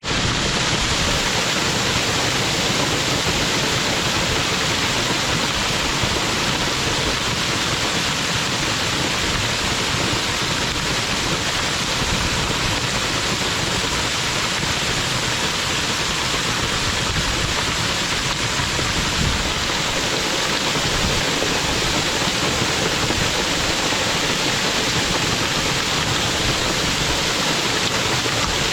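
A waterfall's water falling steadily, an even rushing hiss with no breaks. The falls have no plunge pool.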